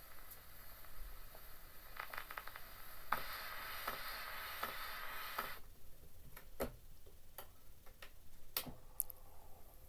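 Steel needle of an HMV 102 wind-up gramophone riding a 78 rpm record after the music has ended: surface hiss with a regular click roughly once a revolution, typical of the run-out groove. About five and a half seconds in, the hiss cuts off suddenly and a few separate sharp clicks follow.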